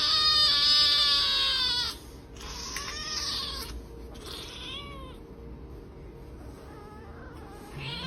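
Domestic cat meowing: a long drawn-out yowl that ends about two seconds in, then two shorter meows, the last one falling in pitch.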